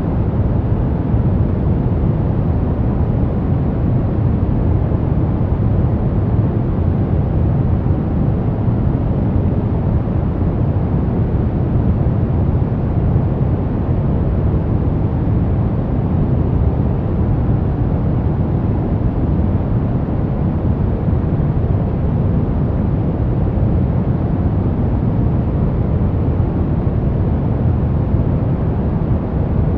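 Steady, unbroken noise track sold as white noise, shaped dark and deep: an even low rush with the treble rolled off and no changes.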